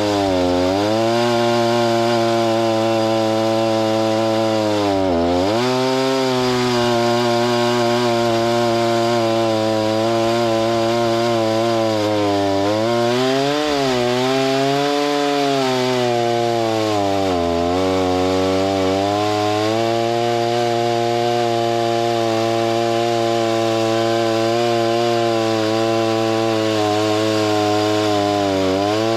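Gas-powered saw milling lumber, its engine running steadily under load. The pitch sags briefly several times as it bogs in the cut, then recovers.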